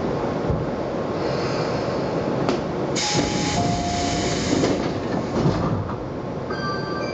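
Tobu 20050 series electric train moving slowly past a station platform, heard from behind the cab: steady running noise of motors and wheels on the rails. There is a sharp click about two and a half seconds in, then a few seconds of high wheel squeal.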